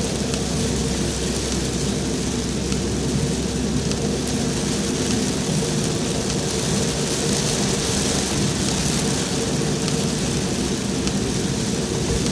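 Heavy rain falling steadily: a dense, even hiss with a constant low rush beneath it and no breaks.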